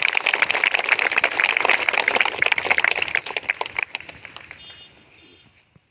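A crowd applauding: dense, irregular clapping that dies away about four to five seconds in.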